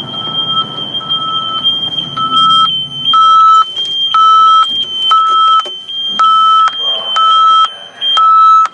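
Electronic alarm beeping: a steady high-pitched tone with a lower, louder beep sounding about once a second, starting about two seconds in.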